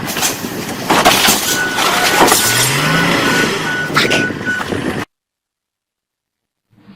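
Loud road-vehicle noise with a rapidly repeating electronic beep and a few sharp knocks, then the sound cuts off abruptly about five seconds in.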